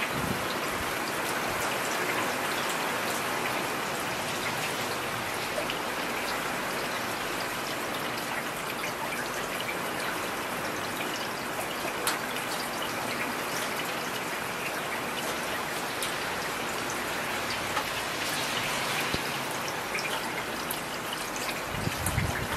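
Heavy rain falling steadily, an even hiss with scattered sharp drop hits, one standing out about halfway through. A brief low rumble comes in near the end.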